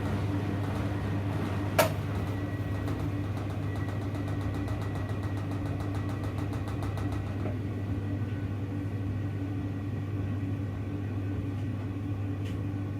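Hoover Electra front-loading washing machine running with a steady, low motor hum. A single sharp click comes about two seconds in, and a fast faint ticking runs for a few seconds after it.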